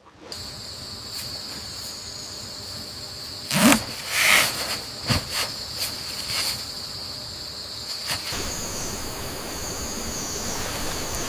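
Steady high-pitched insect chorus, with a few short knocks and rustles between about three and a half and five seconds in.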